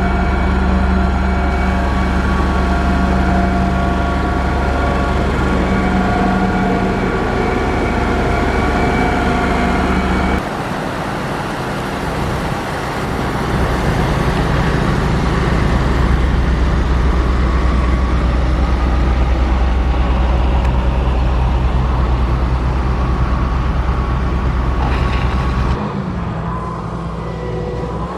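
Diesel engine of heavy road-construction machinery running steadily under load. The sound changes abruptly about ten seconds in and again near the end.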